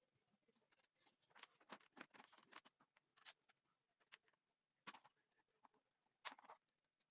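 Faint, irregular clicks, taps and short scratches from something being handled, with a slightly louder click about five seconds in and another just after six seconds.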